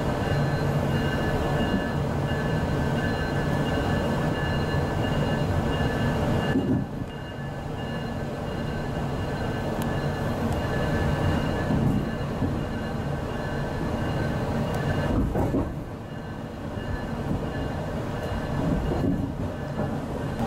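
Interior running noise of a GO Transit bilevel commuter coach moving slowly through a station: a steady rumble with a few thin, steady high whines over it, easing slightly about seven seconds in.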